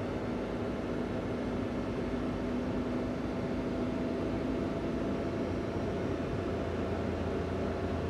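Daihatsu Hijet kei van's 660 cc three-cylinder engine running with stock intake and exhaust, along with road noise, as the van is driven; its note changes about five seconds in.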